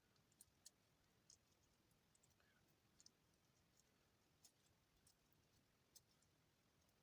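Near silence with faint, scattered crisp clicks, about one a second, from soap shavings being handled and pressed together by hand.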